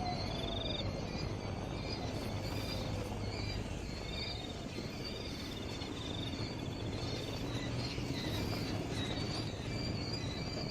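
Outdoor ambience of small birds or insects giving short repeated chirps and buzzy trills over a steady low rumble.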